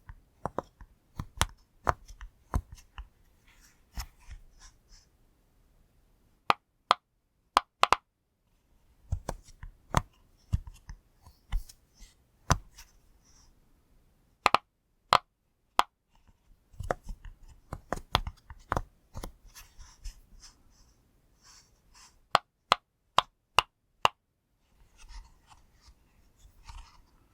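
Bubbles of a push-pop fidget toy pressed one after another, giving strings of sharp pops with short pauses and faint handling rustle between them.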